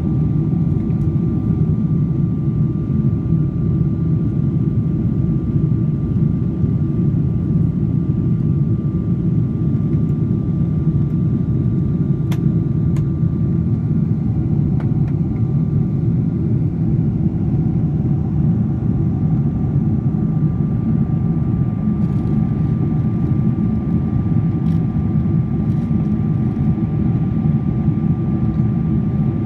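Steady low drone of an airplane cabin in flight, from the engines and the air rushing past, with a thin steady whine over it and a couple of faint ticks about halfway through.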